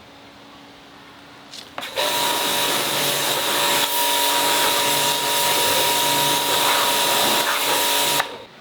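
A loud tool runs with a hiss and a steady whine for about six seconds, starting about two seconds in and cutting off suddenly.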